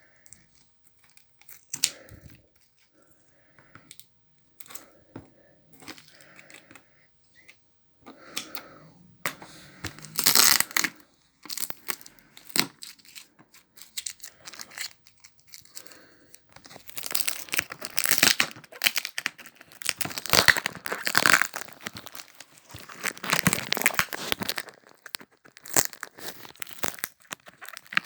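Sellotape being cut and torn off a cardboard box with scissors, with the cardboard rustling and scraping, in irregular bursts. It is sparse at first, with a loud burst about ten seconds in, and grows denser and louder through the second half.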